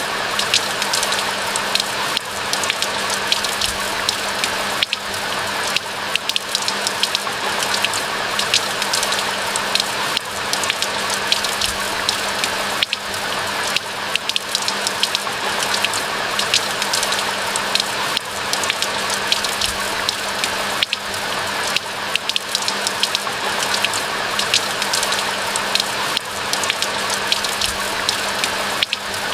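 Steady rain falling in a pine forest, a dense, even patter of drops.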